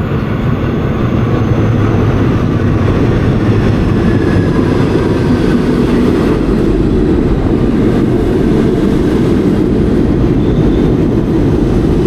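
New York City subway train running, a loud, steady rumble that builds over the first second or two and then holds, with a faint rising whine above it.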